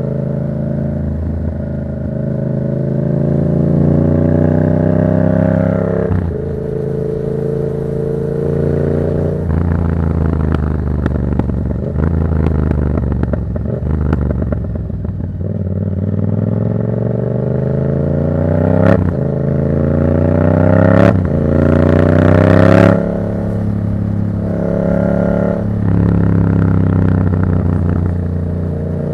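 2024 Yamaha MT-07's 689 cc parallel-twin engine with an aftermarket Black Widow exhaust, heard from the rider's seat. It pulls up through the gears, its pitch climbing and then dropping back at each shift. In the second half the revs rise hardest, with three sharp cracks as the pitch drops, before it settles to lower, steadier running near the end.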